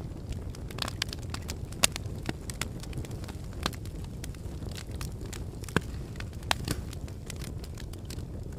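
Lava flow crackling: irregular sharp cracks and clicks over a steady low rumble.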